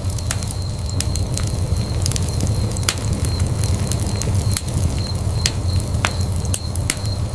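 Wood fire burning in a fireplace, crackling with frequent sharp, irregular pops over a steady low rumble of flames.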